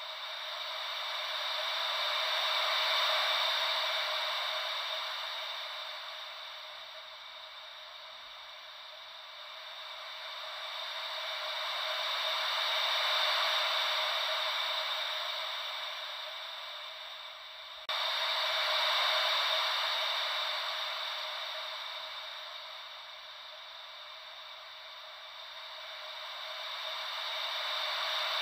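Ocean-wave white noise: a hiss with no low rumble that swells and fades slowly three times, like waves washing in and drawing back. About two-thirds of the way in, the level jumps up suddenly at an edit.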